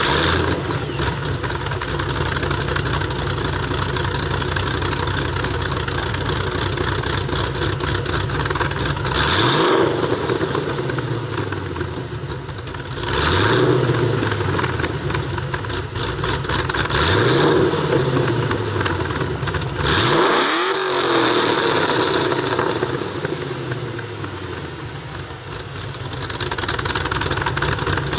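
The 4.6-litre V8 of a 2008 Ford Mustang Bullitt, breathing through BBK long-tube headers, a catted X-pipe and MBRP Pro Series mufflers, idling just after start-up. It is blipped four times, each rev rising and dropping back to idle, and the last one goes highest.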